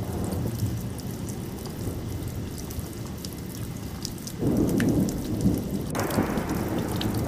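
Steady rain with scattered drop ticks, and a low rumble of thunder that sets in suddenly about four and a half seconds in and grows fuller a second and a half later.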